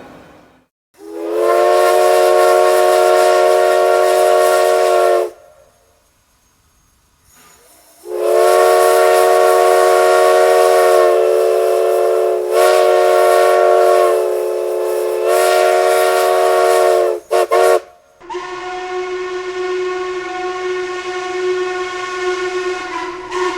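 Steam locomotive whistle sounding several notes at once: a long blast, a pause, then a longer blast that dips twice, followed by two short toots. Near the end a different, quieter whistle blows over a steady hiss of steam.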